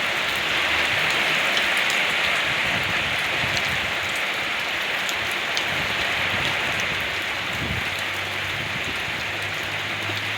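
Steady heavy rain falling, an even hiss with scattered individual drops ticking through it.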